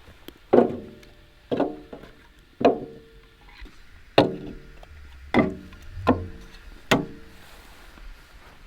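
Axe chopping wood: seven sharp strikes about a second apart, each leaving a short hollow ringing.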